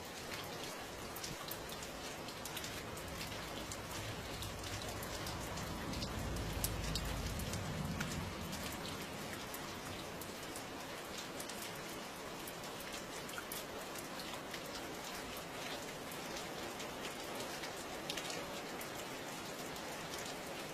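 Steady rain falling, with many individual drops ticking sharply on a hard surface. A low rumble swells and fades about six to eight seconds in.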